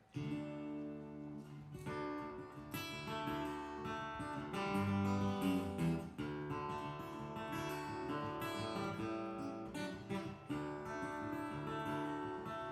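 Solo acoustic guitar playing a song's intro, strummed chords and picked notes at an easy, steady pace.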